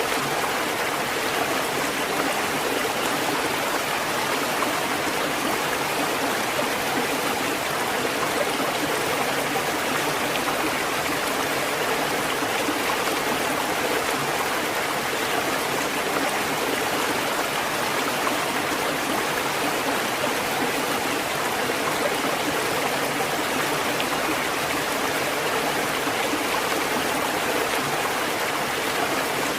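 Running water rushing steadily and evenly, without the rise and fall of breaking waves.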